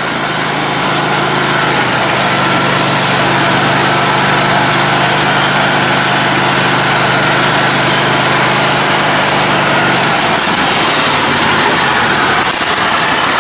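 Engine of a lifted, modified riding lawn mower running steadily on a wooded trail ride. Its low, even drone fades about ten seconds in while the rest of the engine noise carries on.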